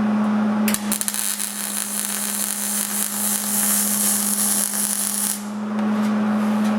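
An electric welding arc crackling and hissing on the thin sheet-metal door of a K5 Blazer. It strikes about a second in, runs for roughly four and a half seconds and stops shortly before the end, over a steady low hum.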